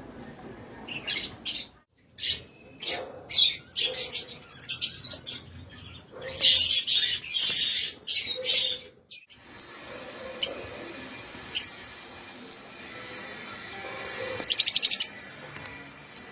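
Lovebirds chirping shrilly: a busy, overlapping flurry of calls for the first nine seconds or so, then sharper single chirps spaced out, with a quick rattling run of notes near the end.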